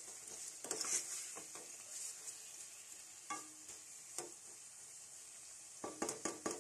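Fried chicken pieces and onion-tomato masala sizzling faintly in a nonstick pot while being stirred with a spatula, with scattered scrapes and knocks of the spatula against the pot, several of them near the end.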